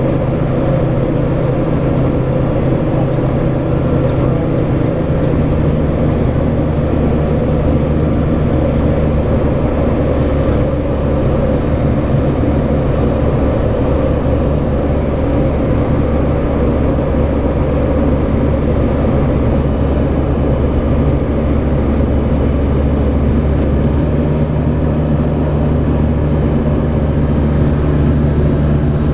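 AutoGyro Cavalon gyroplane's engine and pusher propeller running in flight, a steady loud drone whose note shifts slightly about six seconds in.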